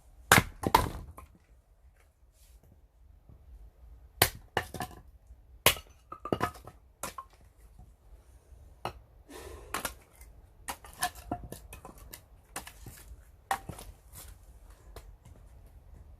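Axe striking oak firewood being split: about a dozen sharp whacks at uneven intervals, some in quick pairs.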